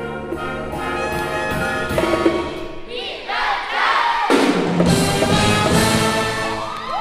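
Junior jazz big band playing the closing bars of a piece, with trumpets and trombones to the fore. Rising and falling brass smears come in the second half and build to a loud finish.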